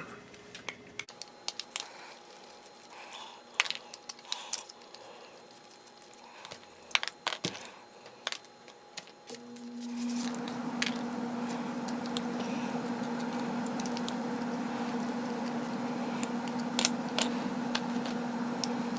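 Small clicks and knocks of parts being handled, then about halfway a steady electric motor hum with a low whine starts and keeps running.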